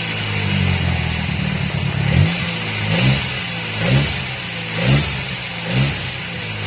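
Nissan GA13 1.3-litre four-cylinder engine idling and blipped with the throttle five times, about once a second, each rev rising briefly and dropping back. The revving is a test of whether the repaired distributor vacuum advance now moves.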